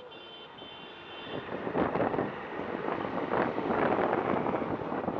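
Road, traffic and wind noise from a moving motorcycle in city traffic, getting louder and gusty after about a second and a half. A short high steady tone, like a distant beep, sounds during the first second or so.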